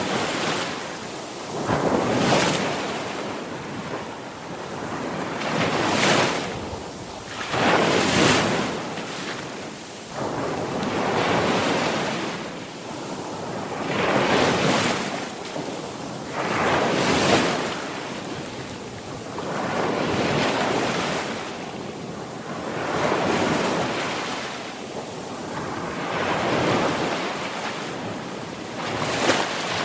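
Sea waves breaking and washing in, one swell of rushing water every two to three seconds, each rising and then fading away.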